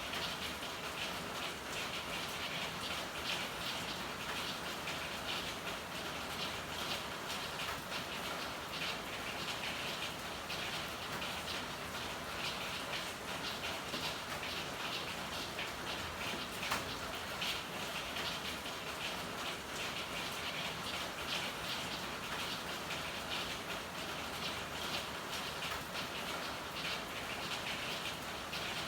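Steady rain falling, with a dense patter of fine drop ticks on hard surfaces and one sharper drip about seventeen seconds in.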